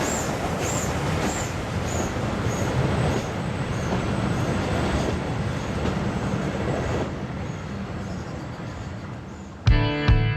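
Historic steam-hauled train running on the rails, with a regular clickety-clack about every half second that fades and grows quieter as the train moves away. Music starts near the end.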